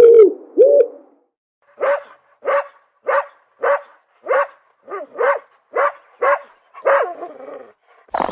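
A dog barking in an even run of about nine or ten short barks, a little under two a second. The barks are preceded in the first second by the last of a series of smooth, pitched calls from another animal.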